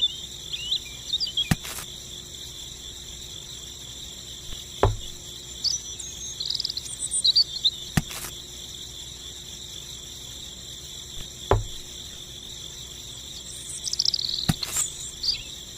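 Steady high-pitched insect chirring, cricket-like, with a few short chirps and a sharp click or knock about every three seconds.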